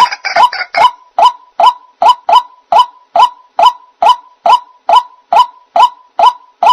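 White-breasted waterhen (ruak-ruak) calling: a monotonous series of short, slightly rising "kwak" notes repeated evenly about two and a half times a second.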